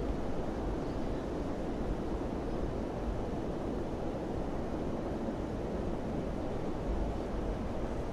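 Wind blowing steadily: a dense, even rushing with a deep rumble underneath.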